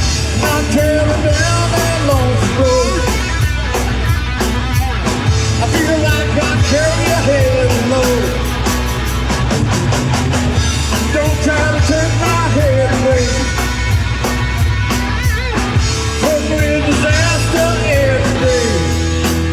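Live rock band playing an instrumental passage: electric guitar, bass and drums, with a lead line of bent, wavering notes over a steady bass and drum beat.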